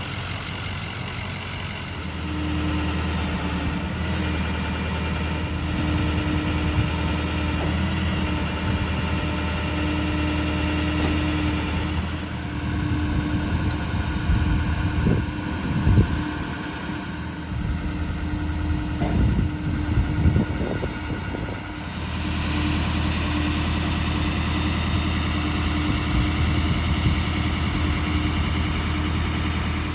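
The 2006 Ford F550's 6.0L diesel engine running steadily at idle. For several seconds in the middle the steady hum drops and changes, with a few sharper knocks, before the steady running returns.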